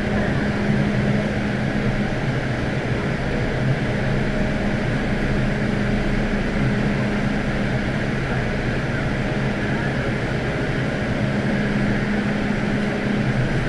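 MTR M-Train electric multiple unit sounding as heard on board: a steady electrical hum over a wide, even rumble, with no rise or fall in pitch.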